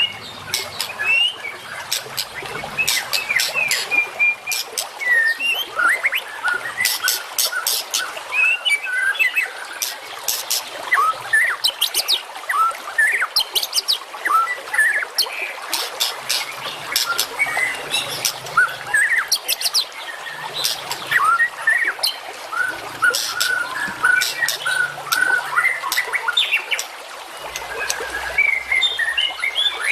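Dense songbird chorus: several birds chirping and trilling at once, full of short sharp high notes and quick rattling runs. It is a masteran, a birdsong training recording played to caged songbirds to teach them calls.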